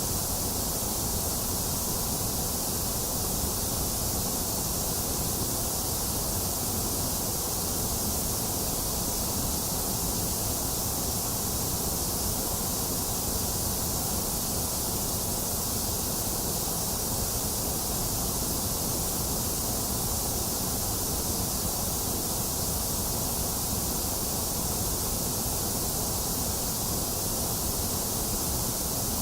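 Box fan running steadily, mixed with falling rain: an even, unbroken hiss with no thunder.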